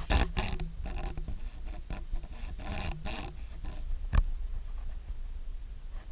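A run of short animal calls over the first three seconds or so, then a single knock about four seconds in.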